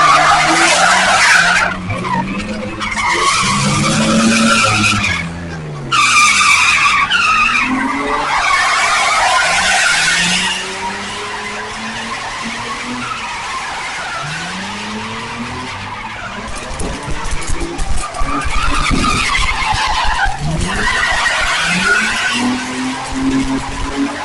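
A car engine revving up and down again and again while its tyres squeal and screech in long loud spells, strongest through the first ten seconds and again near the end. A run of sharp cracks comes in the second half.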